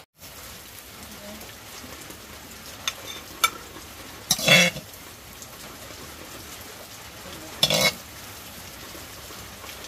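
Steady sizzle of food frying in a pan, with a few light clicks and two short louder noises about four and a half and seven and a half seconds in.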